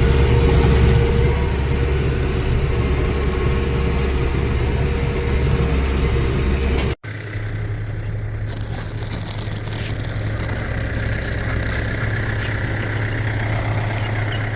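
Farm tractor engine running steadily. About halfway it breaks off abruptly and comes back as a lower, steadier idle.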